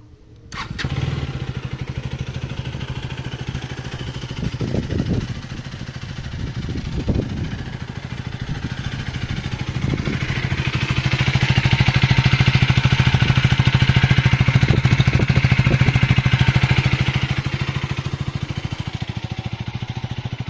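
KTM Duke 250 single-cylinder engine firing up on a cold start about half a second in, then idling with a steady pulsing beat. It swells briefly a few times and runs louder for several seconds in the second half before settling back.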